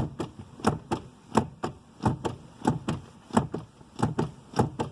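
1996 Honda Civic's brake pedal being pumped repeatedly, each stroke giving a pair of knocks as the pedal goes down and springs back, about seven strokes in steady rhythm. Pumping the pedal after new pads pushes the caliper pistons back out against the pads so the brakes work again.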